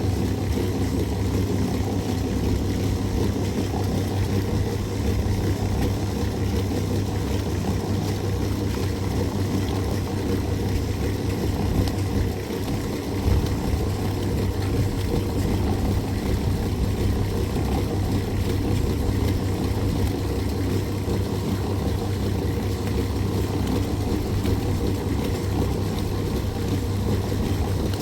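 An engine running steadily at one speed, a constant low hum.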